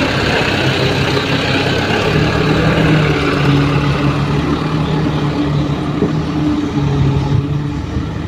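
Light dump truck's diesel engine running steadily, its hum growing a little stronger about two seconds in.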